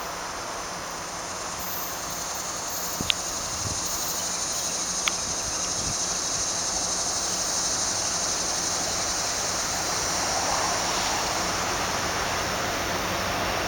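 Freight train rolling along the track: a steady rushing noise that slowly grows louder, with two sharp clicks about three and five seconds in.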